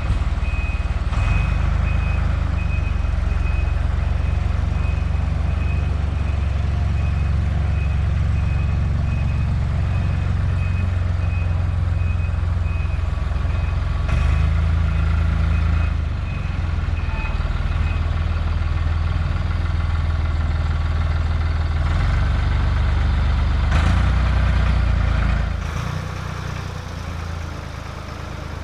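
Forklift engine running under load with its high-pitched reversing alarm beeping in a steady series for the first two-thirds, then the alarm stops; the engine note shifts a few times and drops to a quieter run near the end.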